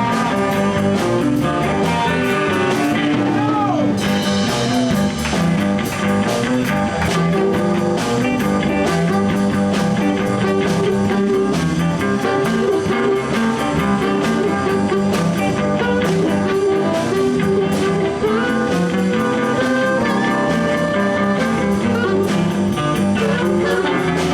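Live blues band playing an instrumental break: electric guitar leads over bass and a steady drum beat.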